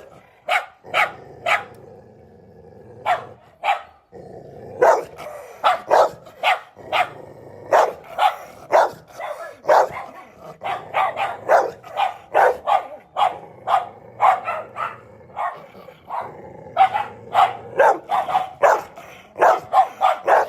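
Labradors barking repeatedly in quick runs of short, sharp barks, with a pause of a few seconds near the start.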